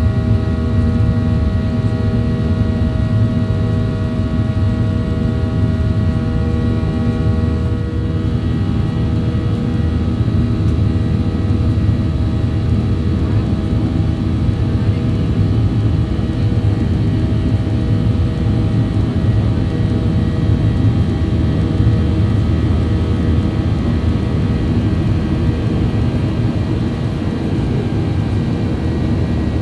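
Boeing 737-800 jet airliner's engines and airflow in flight: a steady, loud low drone with a layer of steady engine whine that weakens about eight seconds in.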